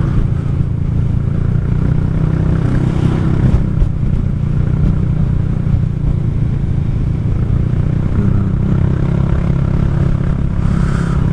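Kymco Xciting 400i maxi-scooter's single-cylinder engine running steadily at cruising speed, under a constant rush of wind and road noise.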